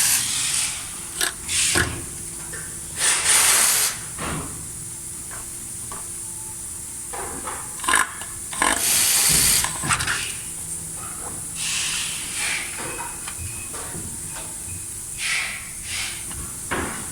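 Several short bursts of hissing, the two loudest lasting about a second each, with scattered clicks and knocks in between.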